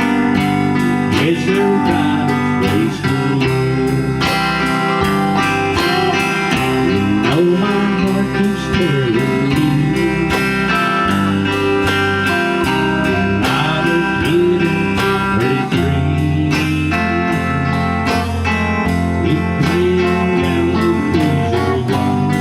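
Instrumental break of a band playing a slow song: a lead guitar solo with notes gliding and bending in pitch over the rest of the band, without singing.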